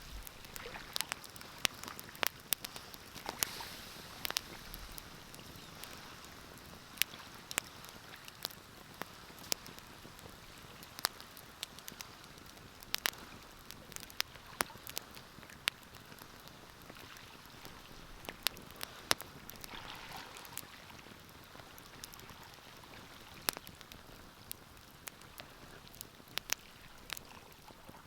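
Wood fire crackling in a fireplace: sharp pops and snaps at irregular intervals over a soft, steady hiss of burning.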